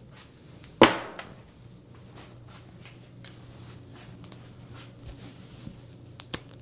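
A single sharp knock with a short ring-out about a second in, followed by a few faint small clicks of handling.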